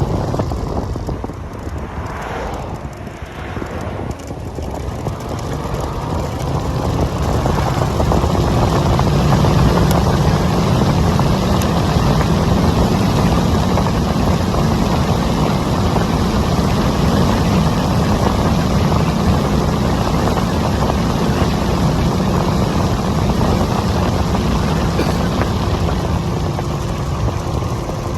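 Steady rush of wind and road noise while riding an Onyx RCR electric bike, heavy in the low end. It dips about two to four seconds in, then builds back up and holds steady.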